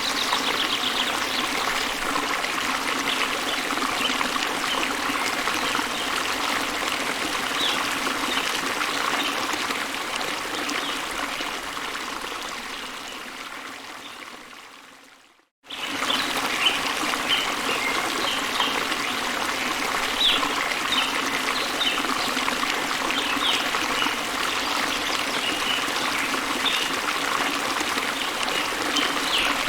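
Steady rushing water of a waterfall or stream, with short bird chirps scattered over it, busier in the second half. About halfway through, the water fades out to silence and then cuts straight back in at full level, where the ambience loop restarts.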